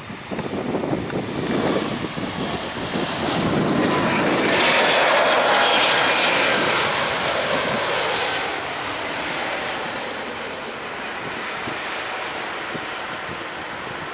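Airliner's engines passing low overhead: the noise swells over a few seconds, is loudest in the middle, then fades away.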